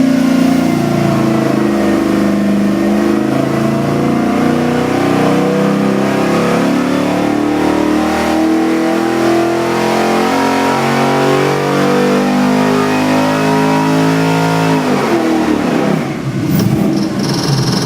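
Custom-built LS7 441 cubic inch V8 crate engine making a wide-open-throttle power pull on an engine dyno, its revs climbing steadily for about fifteen seconds. Near the end the throttle closes and the revs drop quickly back toward idle.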